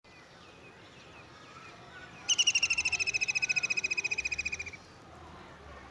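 Faint bird chirps, then a bird's loud, fast trill of rapid even pulses that starts a little over two seconds in and lasts about two and a half seconds.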